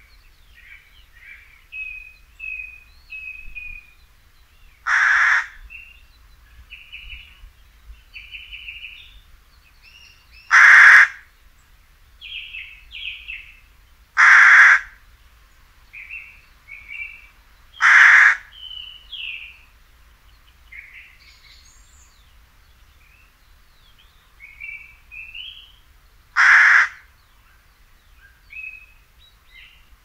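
A large bird gives five loud, harsh calls, single calls a few seconds apart, over quieter, scattered chirping birdsong.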